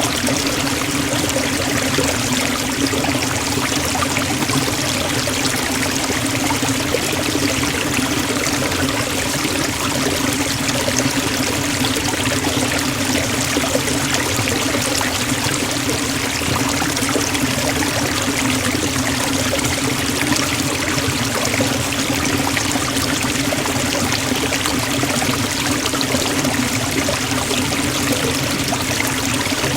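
Forest waterfall: water falling and splashing in a steady, continuous rush.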